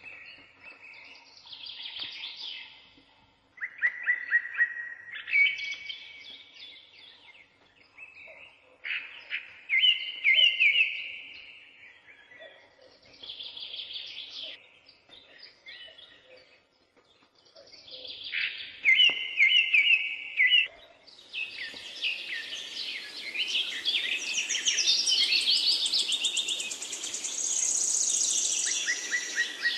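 Birds singing: a string of separate chirping, trilling and whistled phrases with short pauses between them, turning into a denser, busier chorus with a hiss behind it about two-thirds of the way through.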